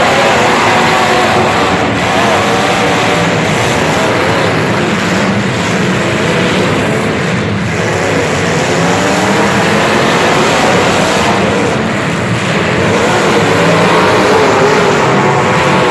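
Motor vehicle engines running hard, their pitch repeatedly rising and falling as they rev, with a loud, continuous engine din throughout.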